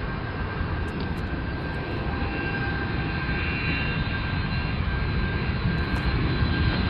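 Jet engines of a fixed-wing aircraft on approach: a steady rushing noise with thin high whining tones, slowly growing louder.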